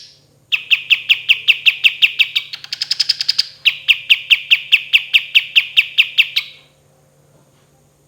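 Kapas tembak bulbul singing a long rolling trill of rapid repeated, down-slurred notes, about seven a second. In the middle is a faster, higher-pitched stretch, and the song stops about six and a half seconds in.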